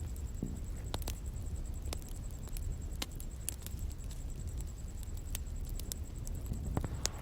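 Bonfire crackling: scattered sharp pops and snaps over the low steady rumble of the burning wood, with a louder snap near the end.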